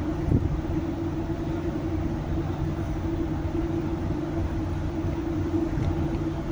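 Steady machinery rumble with a constant low hum, and a single short knock about a third of a second in.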